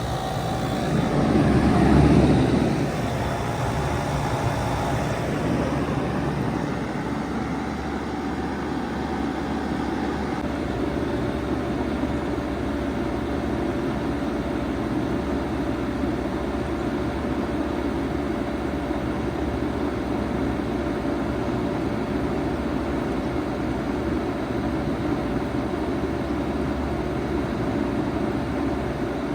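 2007 Bard 5-ton wall-hung heat pump running steadily in heat mode: a constant mechanical hum of compressor and fan. There is a louder swell about two seconds in.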